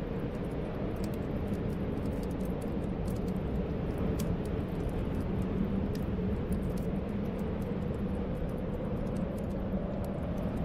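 Snowstorm wind blowing steadily: a deep rush with a wavering whistling tone in it, over the small, frequent crackles and pops of a wood fire.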